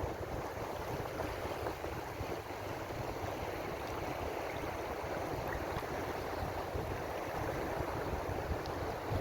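Ocean surf washing steadily, an even hiss with no single breaking wave standing out, over a low fluttering rumble.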